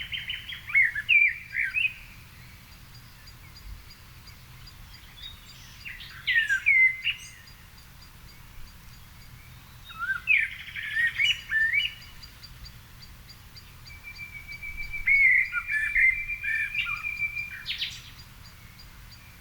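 A songbird singing in separate warbled phrases, four of them, each a second or three long with pauses of several seconds between, the last one the longest. A faint, high, rapid ticking call continues behind the song.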